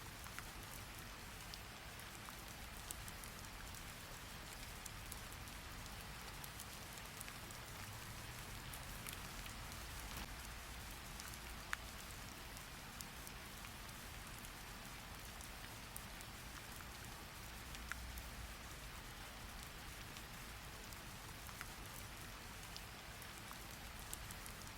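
Steady rain falling on a surface, an even hiss with scattered sharp drop ticks, one louder tick about halfway through.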